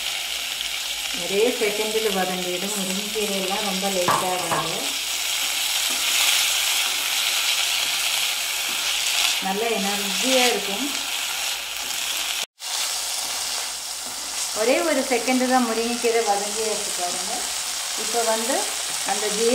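Chopped drumstick leaves sizzling in a drop of oil in a metal kadai while being stirred with a wooden spatula, a steady hiss throughout. Three stretches of a rising and falling pitched sound lie over it, and the sound drops out briefly about twelve seconds in.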